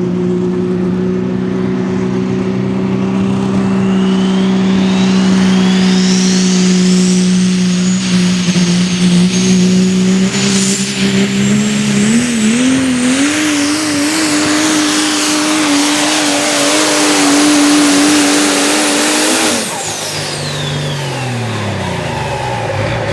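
Turbocharged super stock diesel 4x4 pulling truck running at full throttle down the track. A turbo whine rises steeply to a high steady pitch over the engine note, and the engine pitch climbs about halfway through. Near the end the throttle is cut suddenly and the turbo and engine wind down.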